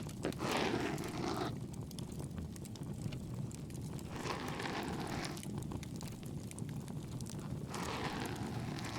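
Bonfire crackling steadily over a low rumble. Three soft rushing swishes of about a second each come over it, roughly every three and a half seconds.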